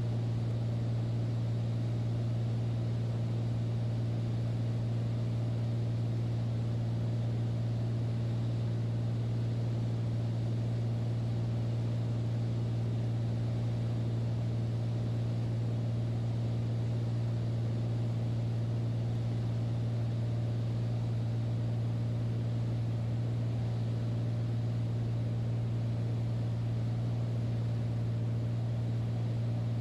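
Light aircraft's engine and propeller droning steadily in flight, heard from inside the cabin, with a strong low hum.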